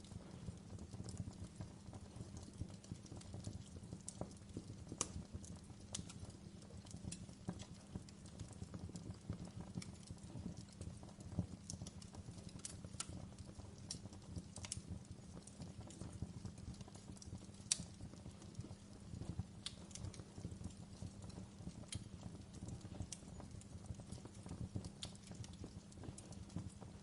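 Wood fire crackling: irregular sharp pops and snaps over a low, steady rumble, with one louder pop about eighteen seconds in.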